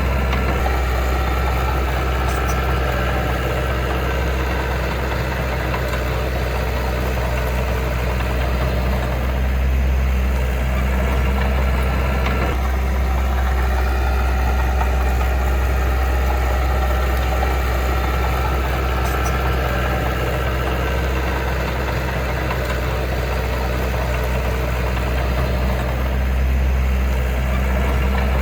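Diesel engine of heavy earthmoving machinery running steadily with an even low hum.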